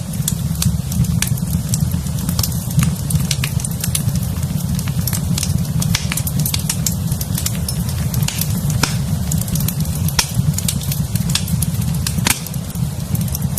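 Fireplace fire crackling, with many irregular sharp pops over a steady low rumble.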